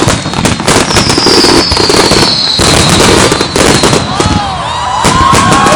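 Fireworks going off in quick succession: dense bangs and crackling. A high whistle falls slowly in pitch from about a second in, and several lower wavering whistles come in near the end.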